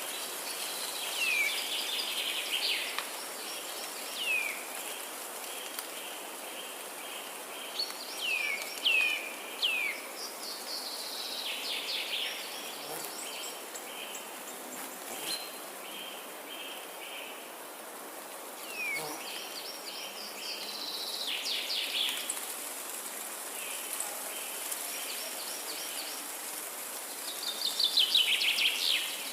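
Forest birdsong: several birds calling with quick falling whistles and fast rattling trills, over a steady high-pitched hiss. The calls are loudest about a third of the way in and again near the end.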